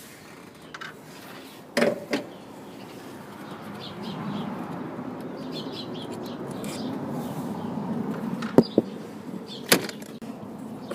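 Hand work under the bonnet while dismantling the intake: a handful of sharp knocks and clinks of tools and metal parts, about four of them, over a rustling of handling that grows louder in the middle.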